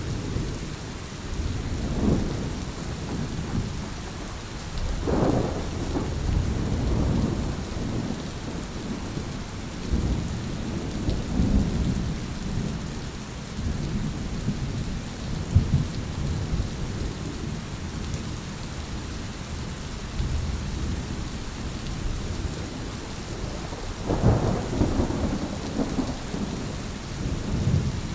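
Steady rain with rolling thunder, low rumbles coming and going throughout and swelling loudest about two and five seconds in and again near the end.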